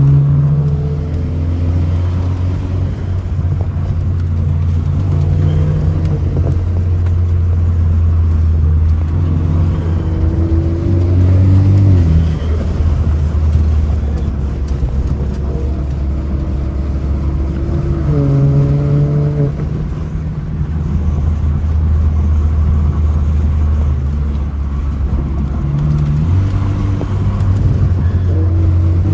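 BMW F30 328i's turbocharged four-cylinder engine pulling hard through a canyon road. Its pitch climbs, then drops sharply several times as it shifts and lifts off.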